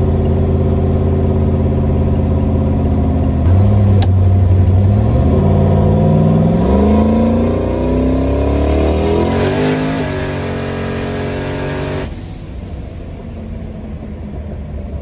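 Turbocharged LS V8 of a Fox-body Mustang heard from inside the cabin: it cruises steadily, then about three seconds in the throttle opens and the engine note climbs in pitch for several seconds, with a rising hiss over it. Around ten to twelve seconds in it backs off and settles to a quieter cruise.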